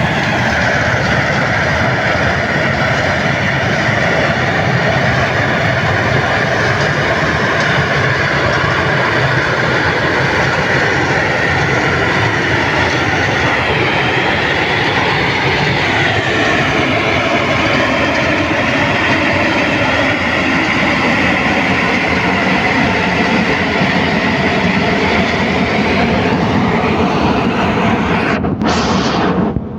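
Asphalt mixing plant running: a loud, steady mechanical din with several high whining tones that drift slightly in pitch. It drops away abruptly at the very end.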